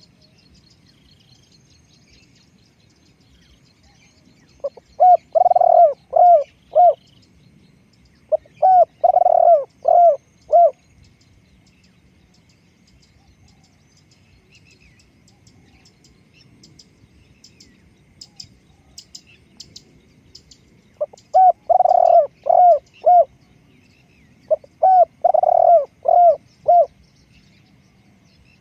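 Spotted dove cooing: four phrases of four or five coos each, two in the first half and two near the end. Faint chirps of small birds come in between, around the middle.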